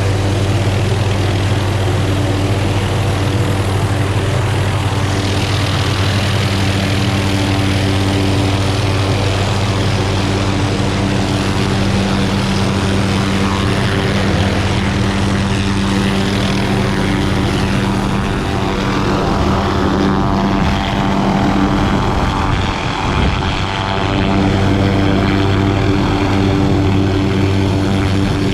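Helicopter's engine and rotor running steadily, with a constant low hum under a broad rushing noise.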